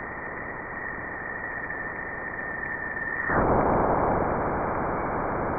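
Space sound presented as the sound of Jupiter: a steady hiss with a thin high tone held over it. About three seconds in the tone drops out and the hiss grows louder and fuller.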